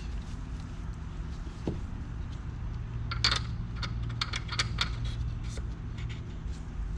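Small metal engine parts clinking as they are handled, with a cluster of light clicks in the middle, over a steady low hum.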